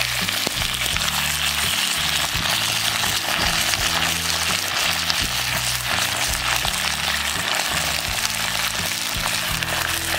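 Freshly added potato sticks frying in hot sesame oil in a clay pot: a steady, even sizzle.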